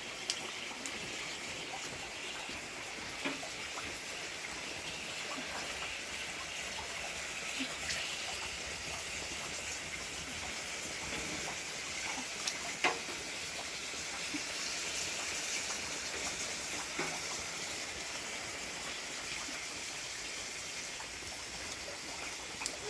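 Steady rain falling, an even hiss with a few scattered light ticks.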